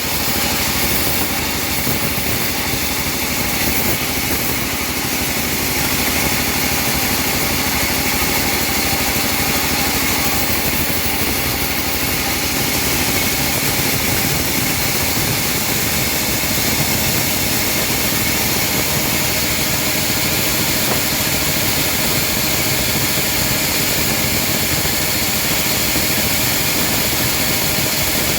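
Engine-driven homemade bandsaw sawmill running steadily, a continuous engine drone with blade noise and no break or change in pace.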